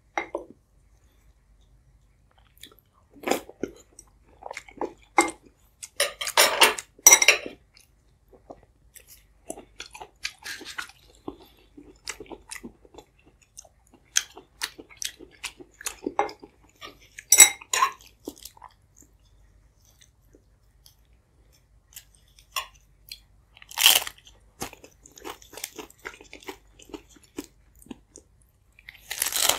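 Close-miked chewing and eating: wet mouth sounds and crunchy bites of egg and potato soup, tomato omelette and flatbread. They come in bouts with short quiet pauses between, the loudest bites about a third of the way in, near halfway and about four-fifths through.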